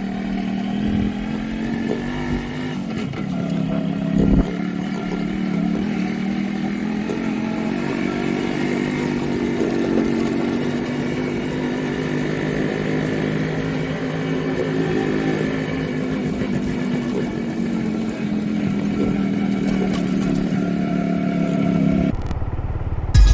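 Motorcycle engine running steadily while riding, its pitch rising and falling slightly, with a single thump about four seconds in.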